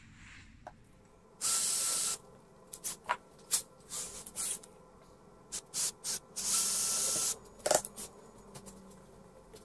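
Two blasts of hissing spray from a pressurised nozzle, each under a second and about five seconds apart, with a faint whistle running through both. A handful of short spurts and clicks come between them.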